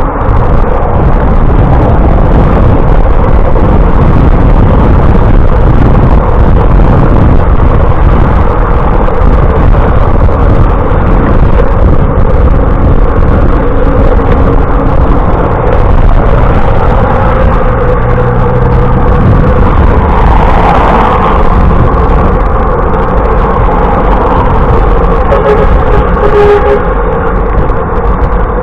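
Loud, steady rush of wind and road noise picked up while riding a bicycle.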